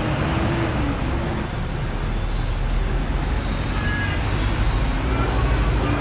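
Busy road traffic with heavy diesel trucks passing, a steady low engine rumble.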